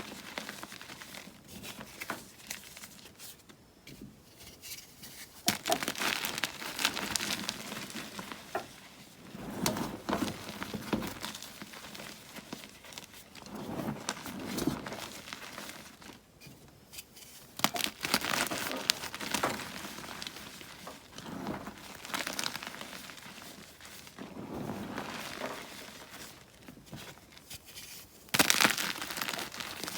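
Blocks of gym chalk being crushed and crumbled by hand, crunching and crackling in repeated swells a few seconds long, with softer powdery rustling between them. The loudest crunch comes near the end.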